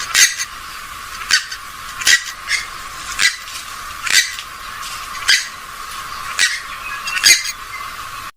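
A gallinule (swamphen or moorhen type of rail) giving short, sharp calls over and over, roughly one a second and sometimes two close together.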